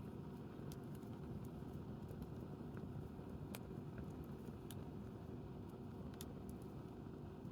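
Wood campfire burning: scattered sharp crackles and pops, the loudest about three and a half seconds in, over a steady low rumble.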